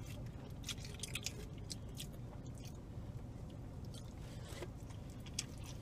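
Close-up mouth sounds of a man biting into and chewing a slice of pizza: faint wet clicks and smacks scattered through, over a low steady hum.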